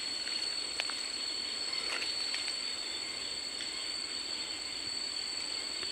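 Forest insects trilling steadily at two high pitches over an even hiss, with a few faint clicks.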